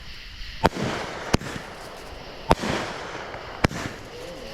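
A 25-shot fireworks cake firing: four sharp bangs about a second apart, most followed by a hissing sizzle from the strobe-and-willow effects.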